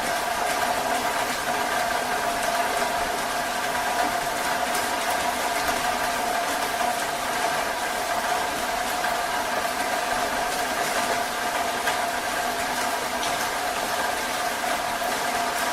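Heavy rain falling steadily, a dense patter of drops, with a steady hum of several held tones underneath.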